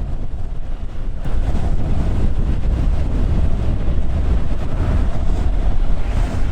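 Wind buffeting the microphone of a moving electric bike, a steady low rumble that grows louder about a second in as the bike picks up speed.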